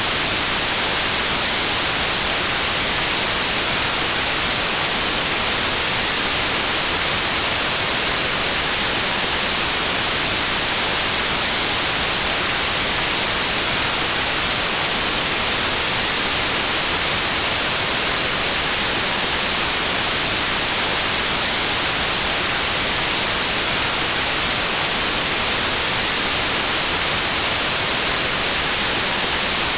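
Steady white noise: an even, unchanging hiss, brightest in the high frequencies, with no events or changes.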